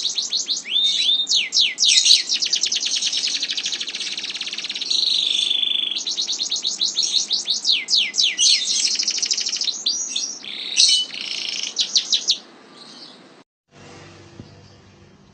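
Domestic canary singing a long rolling song: very fast trills of rapidly repeated notes, strung together with quick chirps and a short held note, breaking off a few seconds before the end.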